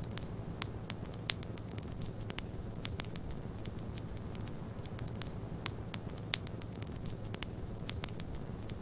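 Fireplace wood fire crackling: irregular sharp pops and snaps, several a second, over a steady low rushing noise.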